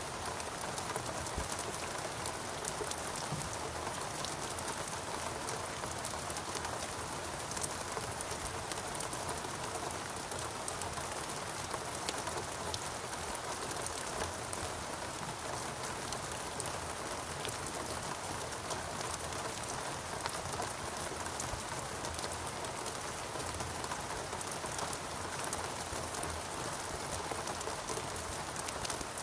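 Steady rainforest rain: continuous falling rain with many fine, closely spaced drop ticks on leaves and surfaces.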